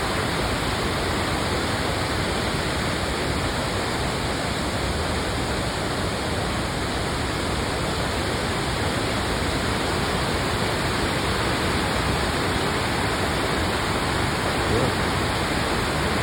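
Waterfalls and cascading streams rushing steadily, a constant loud wash of falling water.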